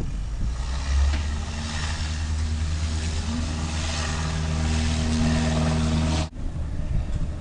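Airplane engines running loudly, a steady low hum and hiss with a tone that rises slightly partway through; the sound cuts off suddenly near the end.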